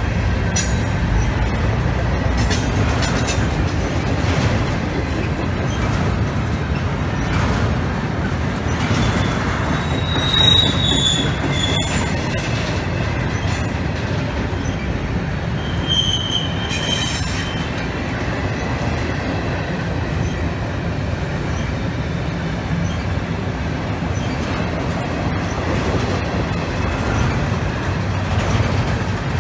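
Railroad cars rolling past with a steady low rumble, wheels squealing in several brief high-pitched squeals between about ten and eighteen seconds in.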